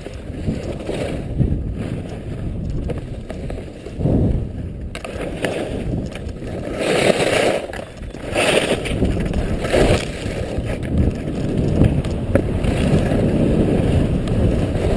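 Skis scraping and hissing over snow, with wind rumbling on the microphone; three brighter hissing swishes come about seven to ten seconds in.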